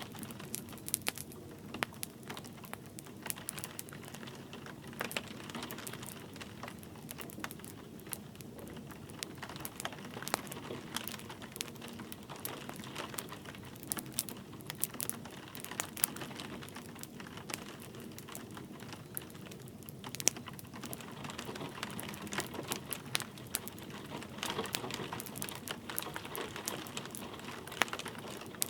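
Wood fire crackling and popping in a fireplace, with a soft steady patter of light rain behind it.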